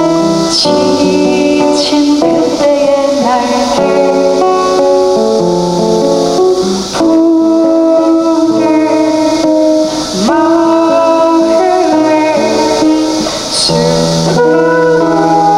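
Live band music: a song with guitar and a held melody line over a steady rhythm.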